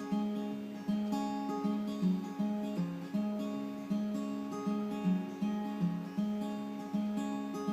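Acoustic guitar playing an instrumental break between verses, strummed in a steady rhythm without vocals.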